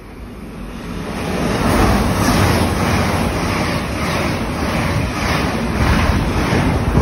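Passenger train passing through the station at speed close to the platform edge: a loud rush of air and wheel-on-rail noise that builds over the first two seconds, stays loud with a faint repeating pulse, and cuts off suddenly at the end.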